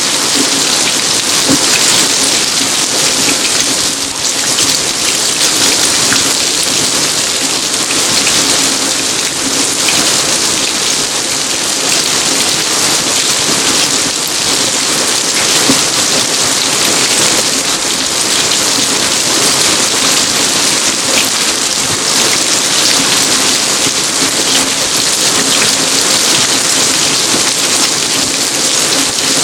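Steady rain falling on a garden: an even, unbroken hiss of many drops, with a faint low hum underneath.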